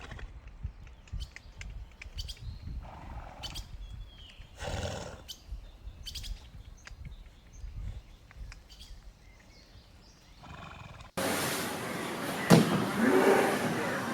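An animal calling a few short times, each call under a second, over a low rumble with small clicks. About eleven seconds in, it cuts abruptly to a louder, busier noise.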